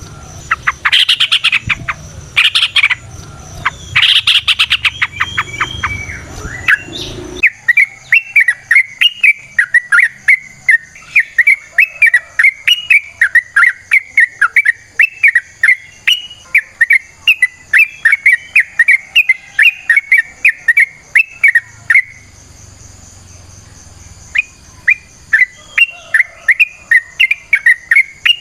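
Yellow-vented bulbul (trucukan) singing. Its first phrases are loud clusters of notes. After an abrupt change about seven seconds in, it becomes a long run of quick bubbling notes, about three a second, which pauses for two seconds near the end and then resumes.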